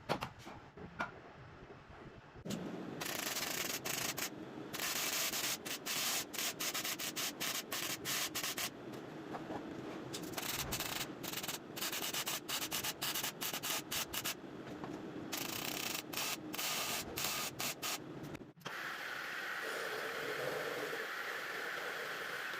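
Sanding: an abrasive rasping against a surface in a long run with many brief breaks. In the last few seconds it changes to a steadier, rougher rasp.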